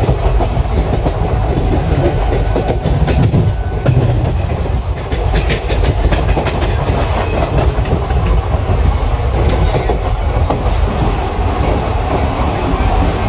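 ICF passenger coach running at speed, heard from inside the coach: a steady low rumble with the clatter of its wheels over the track, including a run of sharp clicks about three to six seconds in.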